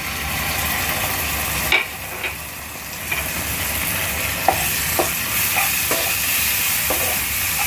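Egg, onion and spring onion sizzling steadily in oil in a nonstick wok as chilli hot sauce is poured in, the sizzle growing louder at the start. A wooden spatula then stirs the mixture, with several short knocks and scrapes against the pan.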